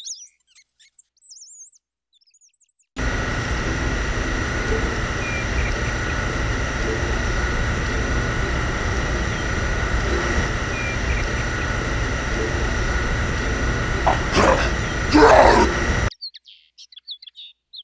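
Birds chirping briefly, then a steady mechanical hum with a high, even whine that cuts in abruptly and runs for about thirteen seconds before cutting off, with birds chirping again after it.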